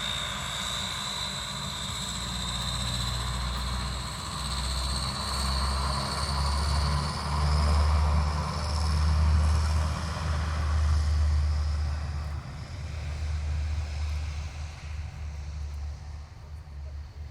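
Rolls-Royce Dart turboprop engines of a YS-11 aircraft: a high whine that slowly rises in pitch over a deep rumble, which grows loudest about halfway through and then fades.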